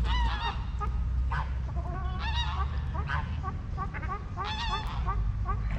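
Waterfowl calling: several overlapping calls that bend in pitch, longer calls around the start, middle and near the end, with many short repeated calls between. A steady low rumble runs underneath.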